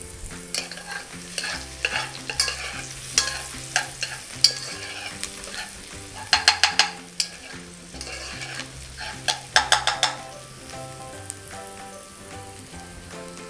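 Frying sizzle from a floured veal shank (ossobuco) browning in oil and diced celery, carrot and onion cooking in butter. A metal spoon scrapes and clinks against an aluminium pot as the vegetables are stirred, with two clusters of quick clicks about six and a half and nine and a half seconds in.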